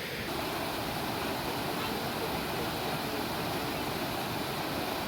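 Steady rushing of running water, an even hiss without rhythm that thickens slightly a moment in.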